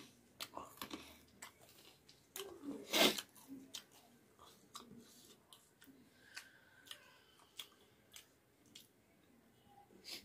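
Close-miked chewing of a mouthful of rice and fried masaura curry: wet mouth clicks and small crunchy bites at irregular intervals, the loudest about three seconds in.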